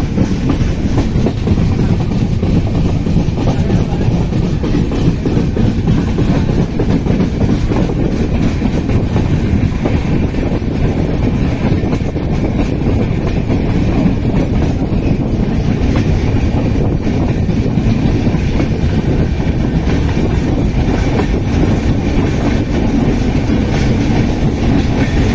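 Passenger train coaches running along the track, heard from an open coach doorway: a steady, loud rumble of wheels rolling on the rails.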